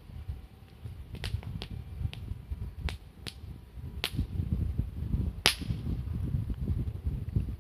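Campfire crackling: burning wood gives sharp, irregular pops over a low rumble, the loudest pop about five and a half seconds in.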